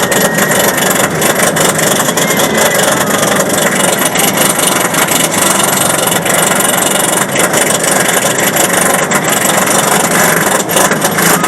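Steel roller coaster train running along its track, a steady rush of noise with constant rattling clicks from the cars.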